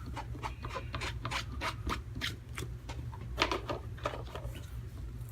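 A rubber stamp being scrubbed back and forth on a damp Simply Shammy chamois cleaning pad to wipe off marker ink. Quick rubbing strokes, a few a second.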